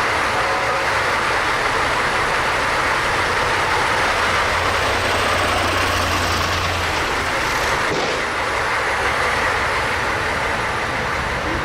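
Steady running noise of a vehicle on the move, an even noise without pauses.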